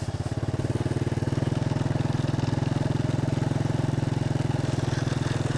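Motorcycle engine running at a steady speed while riding, with an even, rapid firing pulse.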